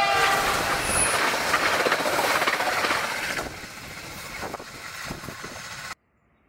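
A train passing close by: the last of a horn blast right at the start, then the rush and clatter of its wheels over the rails, which drops away about three and a half seconds in. The sound cuts off abruptly about six seconds in, leaving only a faint outdoor hiss.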